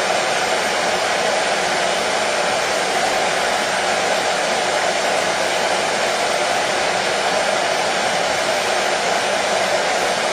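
Hair dryer running steadily: a continuous, unchanging whoosh of fan and blown air, used as white noise to lull a colicky baby to sleep.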